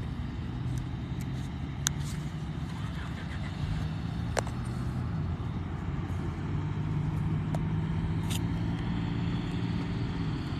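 A motor vehicle's engine running steadily, with a low hum, marked by a few sharp clicks.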